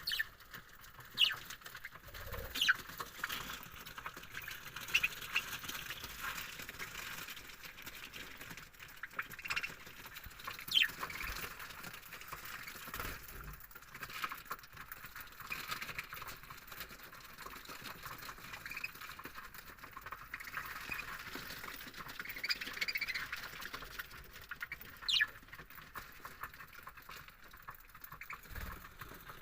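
A colony of budgerigars chirping and chattering, with sharper, louder calls standing out every few seconds.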